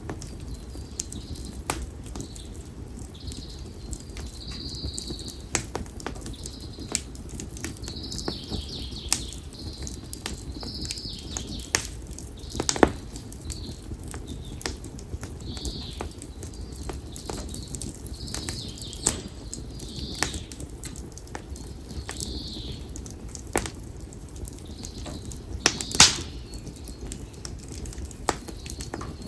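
Konara oak firewood burning in an open fire, crackling with frequent sharp pops over a steady low rush of flames; two louder pops stand out, about halfway and near the end.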